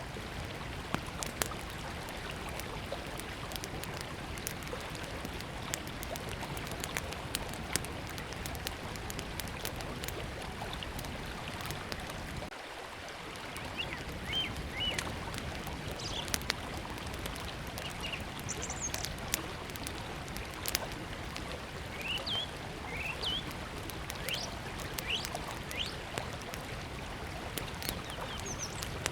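Small wood fire crackling with scattered sharp pops over the steady rush of a river. A small bird gives short chirps now and then in the second half.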